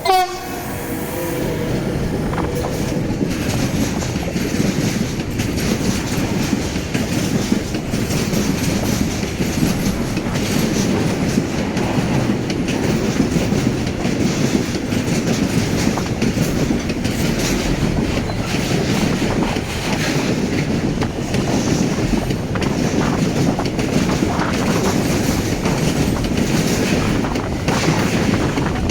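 Freight train running through a station, a steady rumble and clatter of wagons over the rails for the whole length. It opens with a brief, loud sound that falls in pitch.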